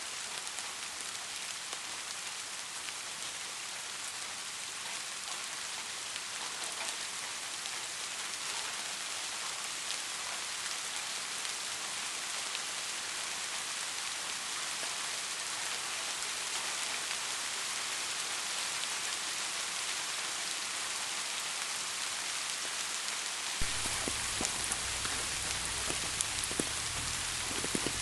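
Steady rain falling, an even hiss of many drops. Near the end a deep low rumble joins in, with heavier, more distinct drops striking.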